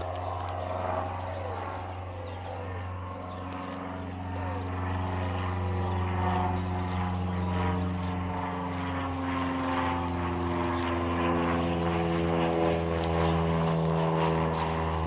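Propeller airplane engine drone, a steady low hum with a few pitches above it, growing gradually louder.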